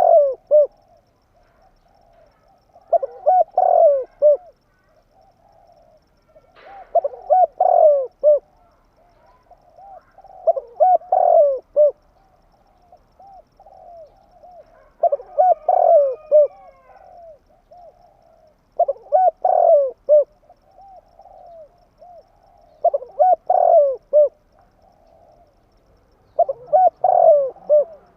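Spotted dove cooing: a phrase of several short, quick coos, repeated roughly every four seconds.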